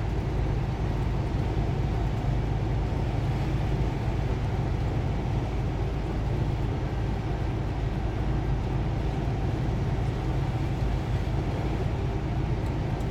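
Steady low engine and road rumble inside a moving semi-truck's cab.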